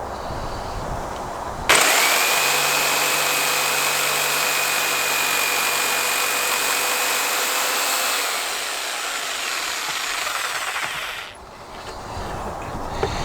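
Handheld electric power tool working the end of a wooden stake to a point. It starts abruptly about two seconds in with a steady high whine, then winds down and stops a couple of seconds before the end.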